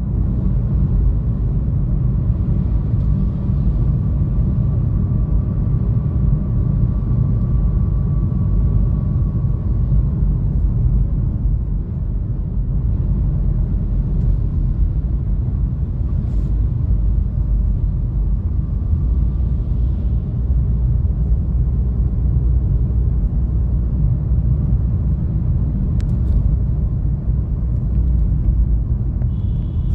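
A car being driven on a road, a steady low rumble of road and engine noise.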